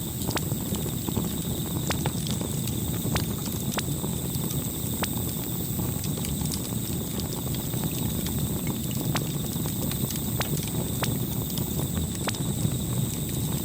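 Campfire burning: a steady low rumble of the flames with sharp crackles and pops at irregular moments throughout.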